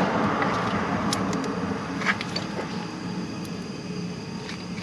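Steady mechanical hum with a few light clicks scattered through it.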